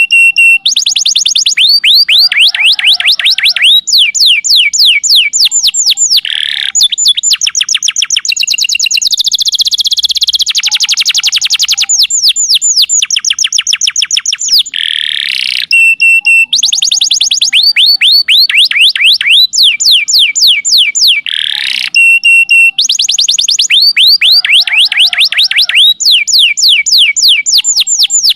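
Domestic canary singing a long, loud song of rapid trills, rolls and whistled glides, played as a masteran tutor recording to get other canaries to sing. The same sequence of phrases comes round again about halfway through, as in a looped recording.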